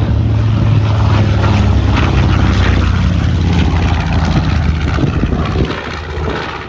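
Piston-engined propeller airplane flying past: a loud, steady engine drone that drops slightly in pitch midway and fades a little near the end.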